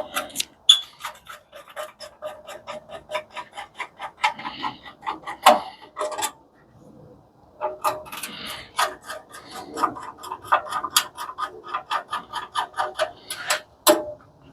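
A hand tool working fasteners on the base of an industrial coffee machine, giving a fast, even run of metallic clicks, about five or six a second. The clicks come in two stretches with a short pause about halfway.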